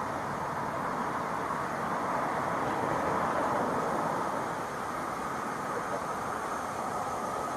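A train running, heard as a steady noise without breaks, with a faint high tone creeping in near the end.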